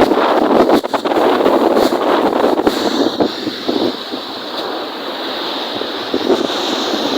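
Wind-driven lake waves breaking and splashing, with wind buffeting the microphone. The sound is loud and choppy for about three seconds, then eases to a steadier wash.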